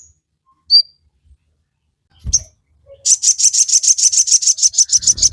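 Songbird calling: a couple of single high chirps, then, about three seconds in, a fast, even trill of repeated high notes at roughly eight a second.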